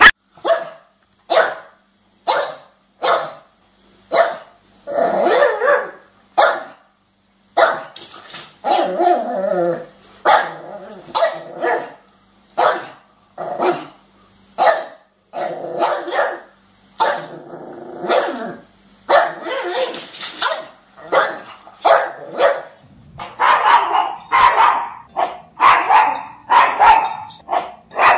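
Dog barking over and over, short sharp barks in quick runs, with a few longer, drawn-out sounds in between.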